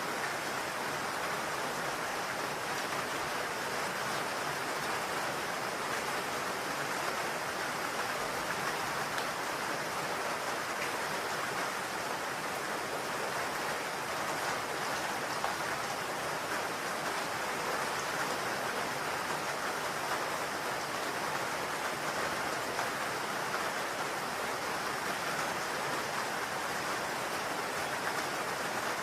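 Rain falling steadily on a roof: an even hiss of many drops that does not let up.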